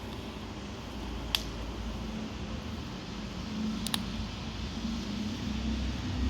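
Wood fire in a fire pit, burning avocado prunings and scrap timber, with a low steady rumble and two sharp pops, one about a second in and a double pop near four seconds.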